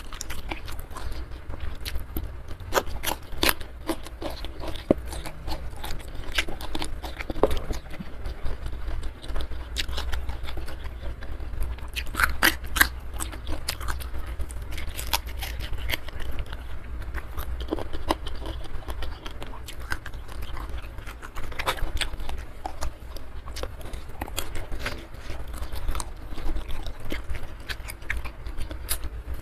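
Close-miked eating: a person chewing and biting through rice, sambal and raw and boiled vegetables, with many short crisp crunches and wet mouth clicks at an irregular pace, over a steady low hum.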